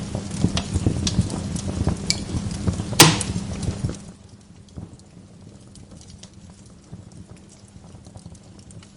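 Wood log fire in a fireplace crackling and popping, with one loud sharp pop about three seconds in. For the first four seconds the crackling is dense over a low rumble, then it drops suddenly to sparse, soft crackles.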